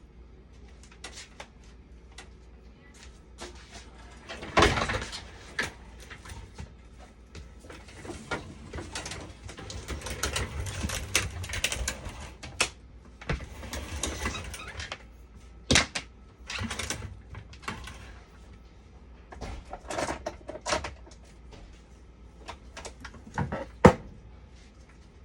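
Handling noises of repair work: scattered clicks and knocks of parts and tools, with stretches of rustling. The loudest knock comes about four and a half seconds in, and another sharp one near the end.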